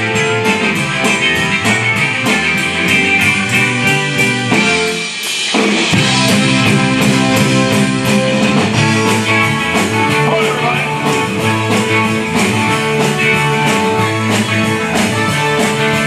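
Live rock and roll band playing an instrumental passage: guitar over a drum kit keeping a steady beat, with a brief break in the low end about five seconds in.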